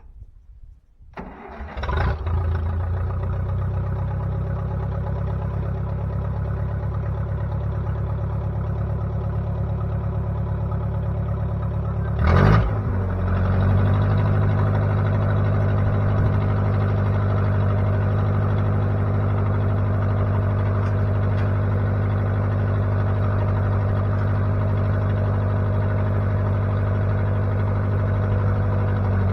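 Replacement engine in a 1960 Case 540 backhoe starting about a second in, then running steadily. About twelve seconds in it gives a brief louder surge and settles into a slightly different steady note.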